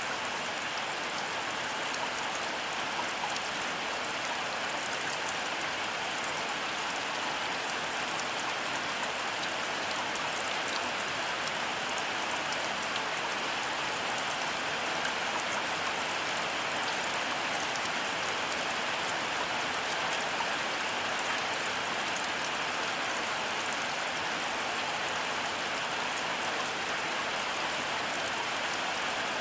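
Heavy rain falling steadily, an even hiss with many small drop ticks on the surfaces. There is no thunder in this stretch.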